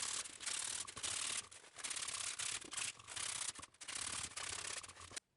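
Sandpaper rubbed by hand over freshly drilled holes to deburr them: back-and-forth strokes, about two a second, that stop shortly before the end.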